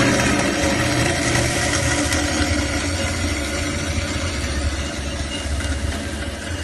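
Metal-cutting band saw running through a cut: a steady motor hum under the hiss of the blade in the metal, slowly getting quieter.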